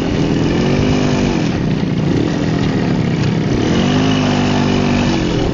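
Minsk 125 cc two-stroke single-cylinder motorcycle engine revving up and easing back down twice.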